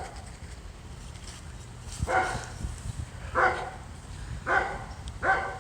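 A dog barking four times, the barks coming about a second apart, starting about two seconds in.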